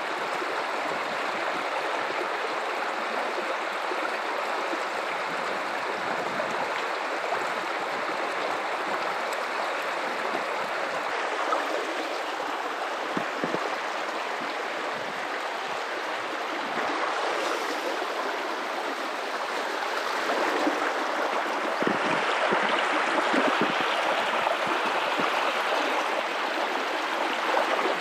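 River water running over rocks in a steady rushing and babbling flow, growing a little louder about three-quarters of the way through.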